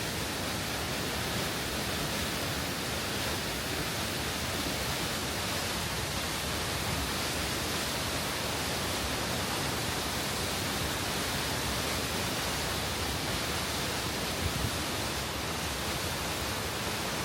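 Steady, even rush of a waterfall on the River Tees, the water pouring hard over the fall.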